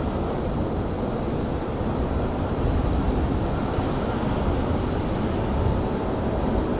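Railyard train noise: a steady low rumble with a thin, steady high whine above it.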